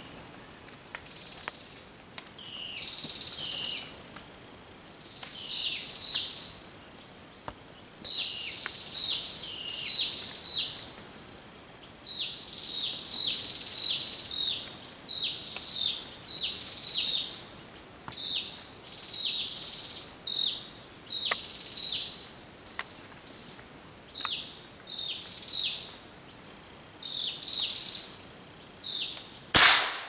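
A small bird chirping in quick clusters of short, high, falling notes, repeated every second or two. A single loud, sharp crack near the end: the hunter's gun firing.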